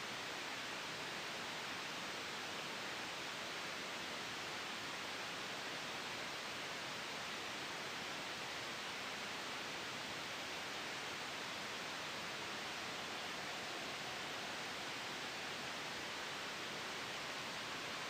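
Steady soft white noise blended with a gentle wind sound, an even hiss that does not change. A faint whistling tone comes in near the end.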